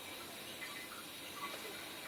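Quiet room tone with a steady faint hiss and a small tick about one and a half seconds in.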